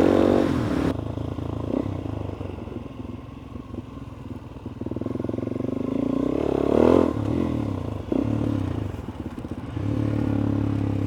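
Single-cylinder dirt-bike engine under way. Its pitch drops in the first second as it slows, it runs low and uneven for a few seconds, revs up briefly about seven seconds in, then settles into a steady run near the end.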